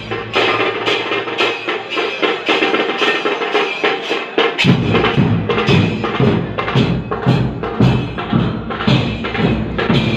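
Crowd of mourners performing matam, striking their chests with open hands in a steady rhythm of roughly one and a half to two beats a second. The deep thud of the strikes comes in much stronger about four and a half seconds in.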